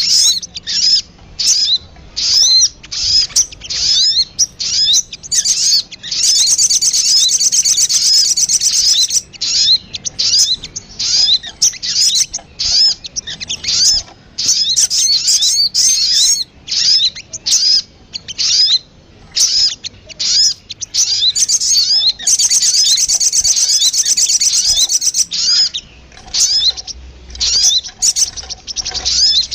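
Little spiderhunter (sogon) calls played as a lure recording: a fast series of short, high chirps, several a second. Two longer stretches of dense chatter come in, one about a quarter of the way in and another past two-thirds.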